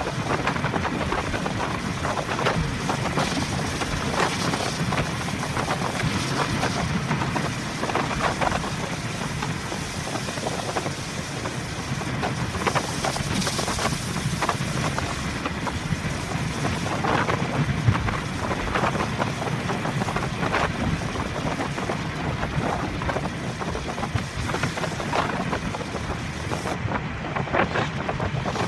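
A car driving through a typhoon, heard from inside on its dashcam: a steady rush of wind and wet-road noise, with many sharp taps throughout.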